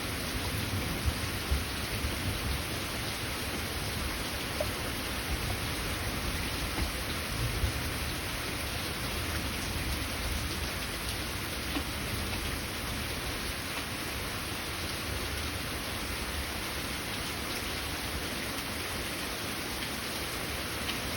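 Steady heavy rain pouring, with a low rumble of thunder in the first half that fades away.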